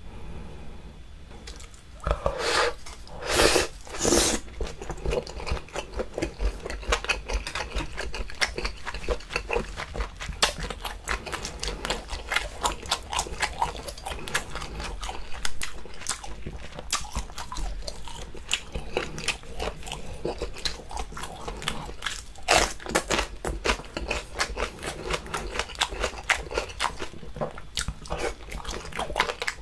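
Close-miked eating of chewy octopus and scallop in a spicy sauce: quick wet chewing clicks and mouth smacks go on throughout, with a few louder wet bites about two seconds in and again past the twenty-second mark.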